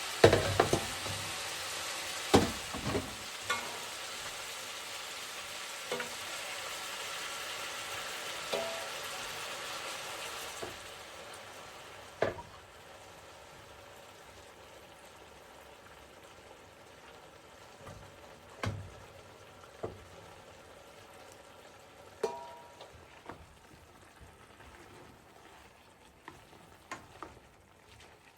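Food sizzling in a pan, with a utensil knocking and scraping against the pan now and then; the sizzle fades about ten seconds in, leaving a quieter stretch with occasional clinks, one of them briefly ringing.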